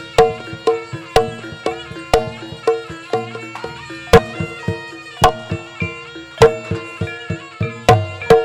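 Live Javanese traditional music for a barongan dance: hand-drum strokes at a brisk beat over sustained, stepping melodic tones from pitched instruments, with no singing.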